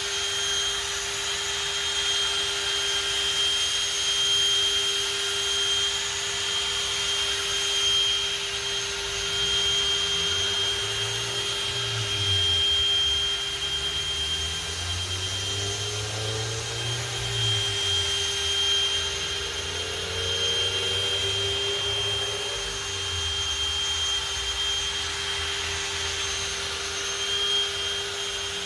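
Electric drill spinning a polishing pad, buffing polish on a plastic headlight lens: a steady whine throughout that cuts off suddenly at the end.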